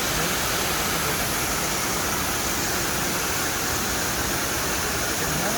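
Swallow Falls waterfall rushing steadily, an even roar of falling water.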